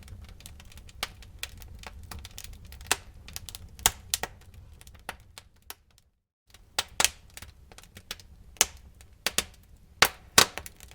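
Wood fire burning in a fireplace: irregular crackling and sharp pops of burning logs over a low rumble of the flames. The sound cuts out completely for about half a second near the middle, then the crackling resumes.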